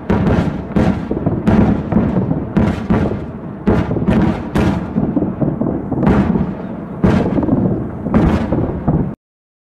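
A rapid barrage of rocket explosions, about a dozen blasts at irregular spacing, each trailing off in a rumble. The blasts cut off suddenly about nine seconds in.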